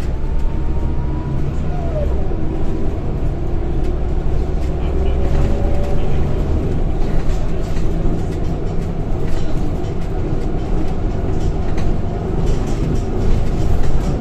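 Inside a Scania K230 single-deck bus on the move: its diesel engine drones low and steady through the floor, with a faint whine from the ZF automatic gearbox sliding up and down in pitch now and then, and the body panels and fittings rattling.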